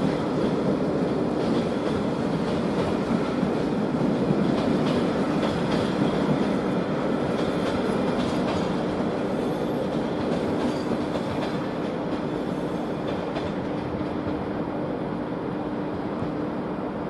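Train rolling slowly along the track, its wheels clicking over rail joints, under a steady hum. It grows gradually quieter toward the end.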